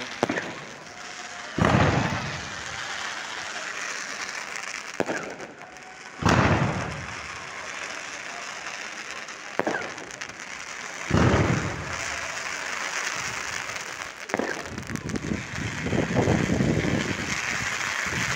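Aerial firework shells bursting: three loud booms about five seconds apart, each trailing off, with single sharper cracks between them. A stretch of dense crackling fills the last few seconds.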